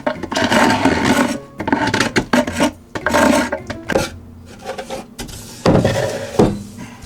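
A scraper dragged in irregular, repeated strokes across an old wooden beehive box, scraping off the sticky gunk that has built up on it.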